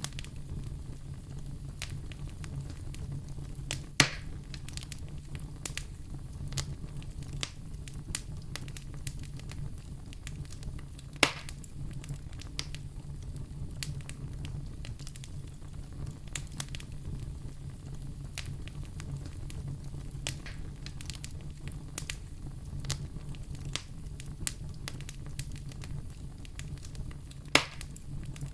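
Wood fire in a fireplace crackling: a steady low rumble of burning with a constant patter of small snaps, and three louder sharp pops, about 4, 11 and 27 seconds in.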